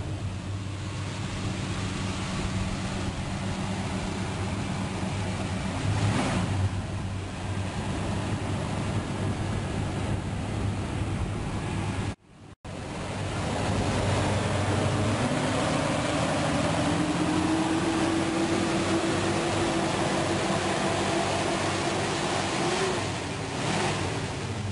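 A car engine running steadily, with wind rushing over the microphone. After a brief break about halfway, the engine note climbs slowly for several seconds.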